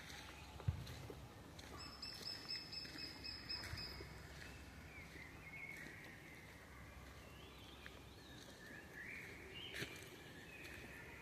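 Forest birds calling: a thin, high, steady trill lasting about two seconds, then wavering chirps through the second half. Two sharp clicks come about a second in and near the end, over a faint low rumble.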